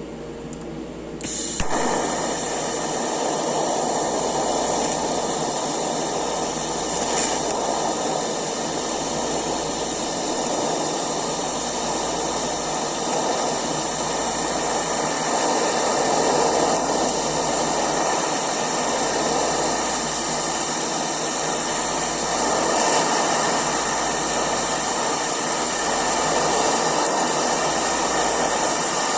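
Eastwood TIG 200 TIG welding arc, struck about a second in, then burning steadily as a bead is laid: a steady hiss with an even buzz running through it.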